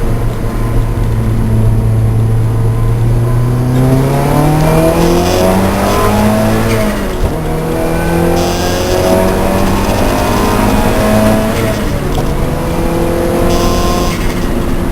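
Lancia Delta's four-cylinder engine at racing speed, holding steady, then revving up hard through the gears, with the pitch dropping back at two upshifts.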